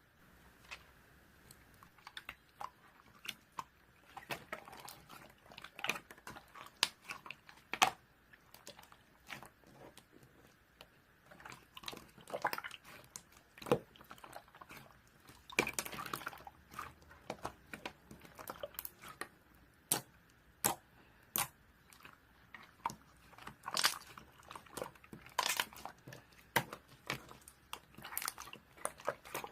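Irregular sharp clicks and crunches, like something being chewed and bitten, coming in uneven clusters.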